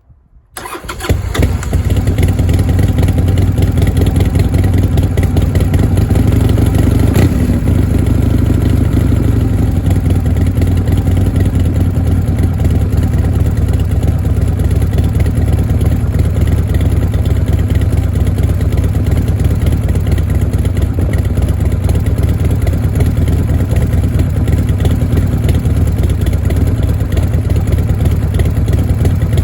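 Buell motorcycle's V-twin engine starting about a second in, then idling steadily.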